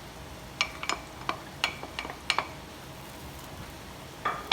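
A cooking utensil clinks against a pan about seven times in quick succession while mushrooms are stirred into butter, each clink ringing briefly. A louder clatter of pan and utensil comes near the end.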